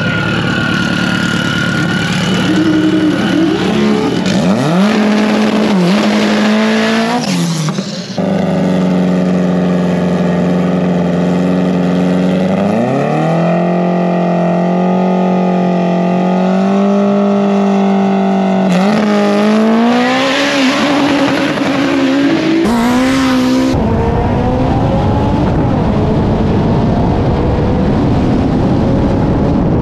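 Subaru WRX STI drag car's engine revving and holding steady at a raised speed, then climbing in pitch in stages as the car pulls hard down the strip. Near the end the engine is buried under heavy wind noise at speed.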